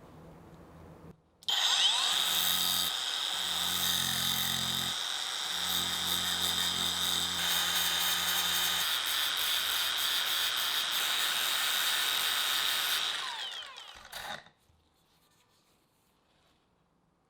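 A small high-speed power tool spins up with a rising whine, runs steadily with a high-pitched whine for about eleven seconds, then winds down and stops.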